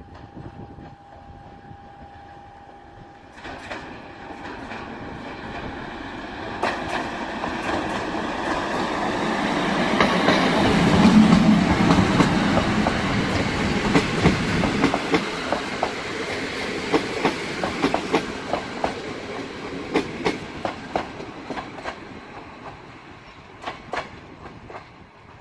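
A train passing by: its rumble builds to a peak about eleven seconds in, then the wheels clack over the rail joints as the cars roll past, fading toward the end.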